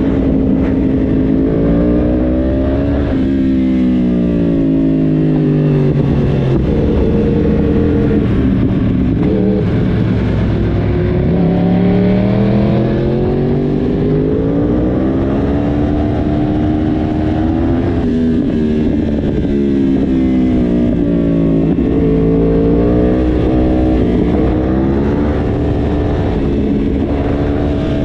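Yamaha YZF-R1's crossplane inline-four engine and exhaust at riding speed. The pitch climbs under acceleration and falls away as the throttle is rolled off, several times over.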